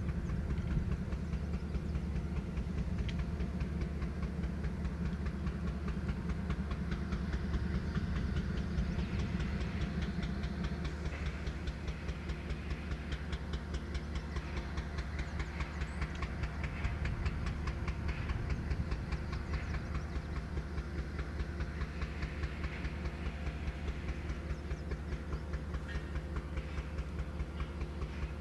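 Freight train running on the rails: a steady low rumble with a quick, even clatter of wheels, easing slightly partway through.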